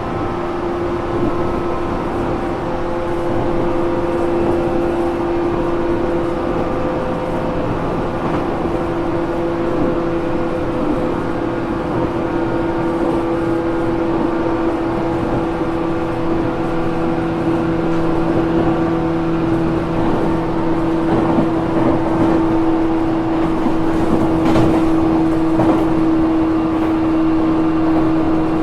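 JR Kyushu 415 series 1500-subseries electric train motor car running between stations, heard from inside the car: a steady rumble of wheels on rail with a motor hum holding one pitch. This car is known for an unusual running noise.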